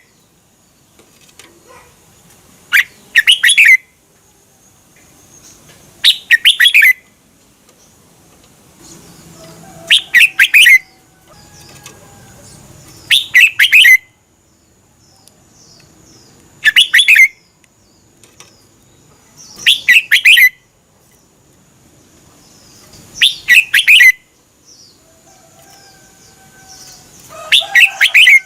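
Red-whiskered bulbul singing: short, loud, rapid phrases of several whistled notes, repeated about every three to four seconds with quiet gaps between. A faint steady high-pitched tone runs beneath from about two seconds in.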